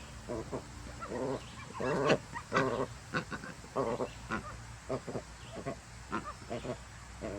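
A run of short, repeated animal calls, a few a second, each a brief pitched sound.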